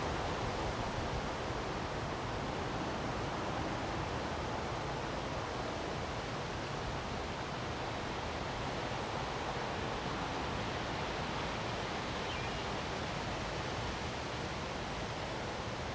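Wind blowing steadily in a windstorm: an even rushing noise that holds at one level, with no single gust standing out.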